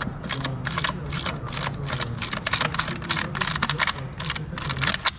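Hand ratchet wrench clicking rapidly in quick runs as bolts are run in on a new engine motor mount.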